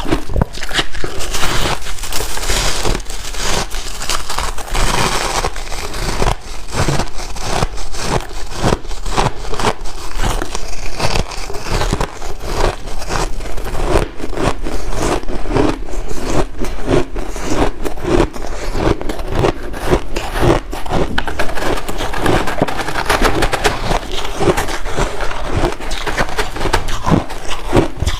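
White ice being chewed and crunched close to the microphone: a dense, unbroken run of crackling crunches.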